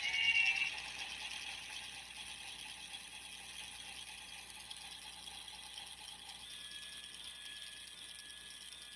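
A small toy motor whirring steadily through its plastic gears, with a fine rapid ticking.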